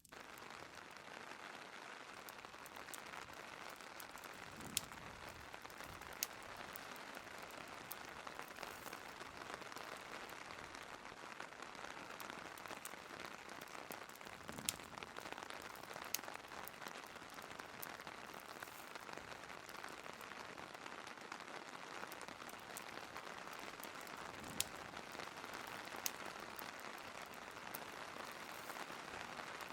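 Steady rain hiss, with a handful of sharp single pops now and then that sound like crackles from a fire.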